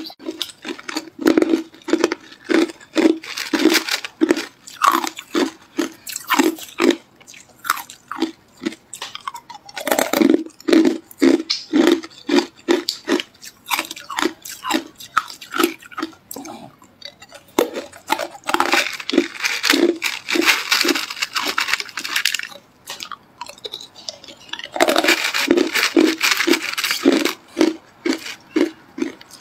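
Hard clear ice being bitten and chewed: crunching chews at about three a second, with longer bursts of crackling crunch about two-thirds of the way in and again near the end.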